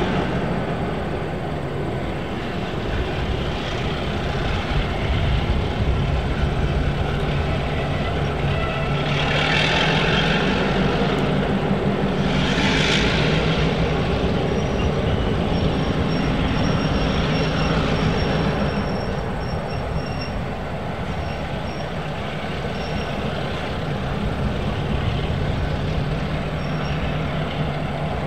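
A diesel-hauled train running: steady locomotive engine hum and rolling noise, with two brief rushes of hiss about ten and thirteen seconds in, and a faint on-and-off high squeal partway through.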